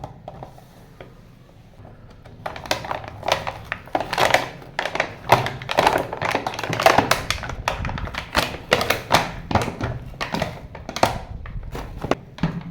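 Hard plastic toy cars clattering and knocking together in quick, irregular taps and thunks, starting about two and a half seconds in and keeping on.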